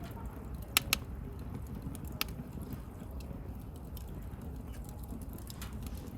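Bonfire burning with a steady low rumble of flame and scattered sharp crackles, two of them close together about a second in and another just after two seconds.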